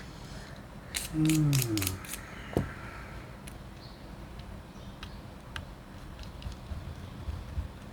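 Small clicks and taps from handling a disassembled Nikon D90 DSLR and small tools, with a short creak falling in pitch about a second in and one sharper knock soon after, then scattered faint ticks.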